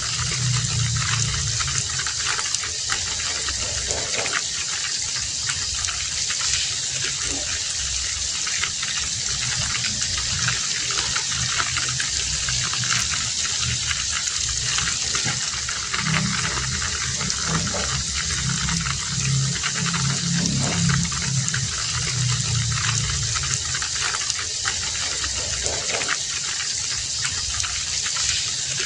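Heavy rain falling steadily, a dense even hiss, with a low rumble that swells and fades several times.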